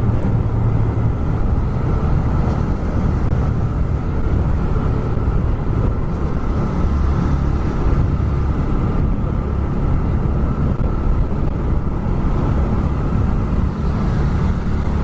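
A TVS Raider 125's single-cylinder engine and exhaust running steadily while the bike is ridden, mixed with wind rushing over the rider's microphone.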